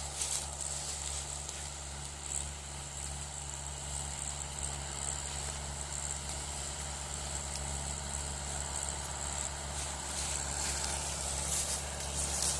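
Mahindra tractor's diesel engine running steadily, a low even drone with no revving.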